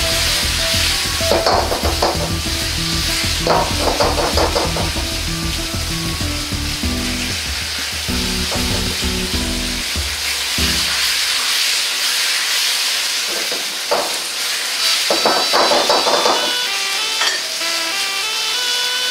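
Pork slices sizzling in hot oil in a wok over a gas flame. A few short bursts of rattling and scraping cut in as the wok is moved on the burner and the meat is shifted.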